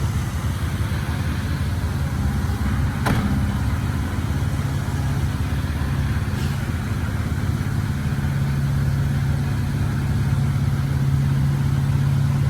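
Komatsu D20P bulldozer's diesel engine running steadily with a constant low hum. There is one sharp knock about three seconds in and a fainter one a few seconds later.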